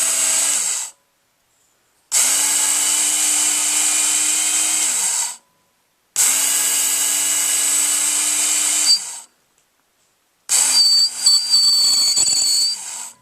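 Work Sharp electric belt knife sharpener making sharpening passes on a knife blade: the motor and abrasive belt run in bursts of about three seconds, stopping about a second in and starting again three times. Each burst ends with the motor winding down, and the last pass has a thin ringing squeal of steel on the belt.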